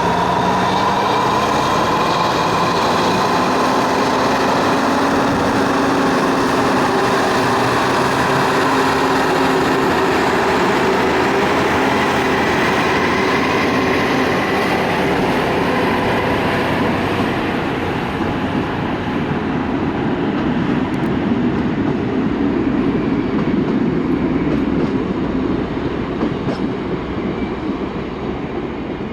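Historic RTM museum tram running along its track, a steady loud rail rumble with a few faint held tones. It gets a little quieter over the last ten seconds or so.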